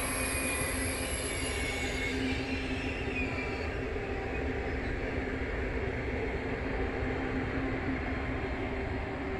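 PKP Intercity Pendolino (ED250) electric high-speed train passing close by: a steady rush of wheels on rail with a steady low tone underneath, and high whines that fade out over the first few seconds.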